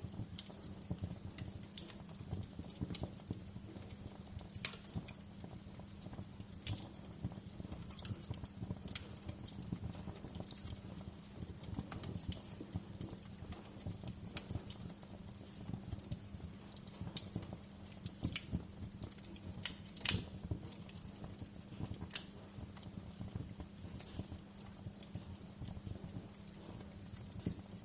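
Wood fire crackling in a fireplace: irregular pops and snaps over a steady low hum of the burning fire, with one louder pop about twenty seconds in.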